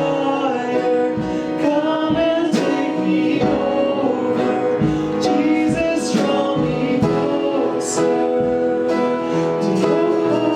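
Live worship song: singing over guitar and a band, with percussion hits.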